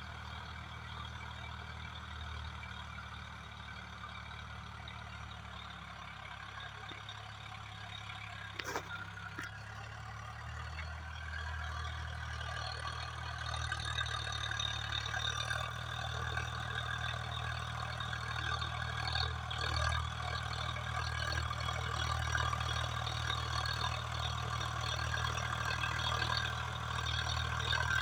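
Swaraj 744FE 4WD tractor's diesel engine running steadily while working a rotavator. It grows louder from about halfway through, and there are two sharp clicks a little under a third of the way in.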